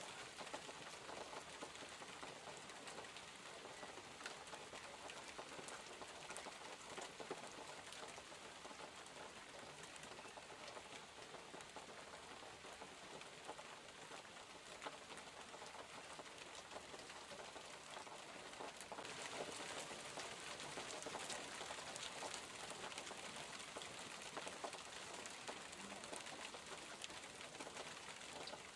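Steady rain falling, with many separate drops ticking close by; the rain grows heavier about two-thirds of the way through.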